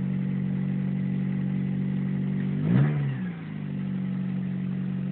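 1990 Honda Accord's four-cylinder engine idling steadily shortly after a cold start. About three seconds in it briefly revs, rising and falling back in pitch, then settles to idle again.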